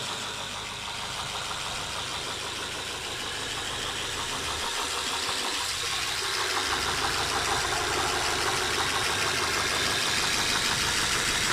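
Rebuilt engine idling steadily, with a fast, even pulse of firing strokes that grows gradually louder.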